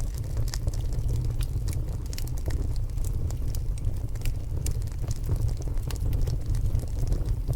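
Wood logs burning in a stone fireplace: irregular sharp crackles and pops over a steady low rumble.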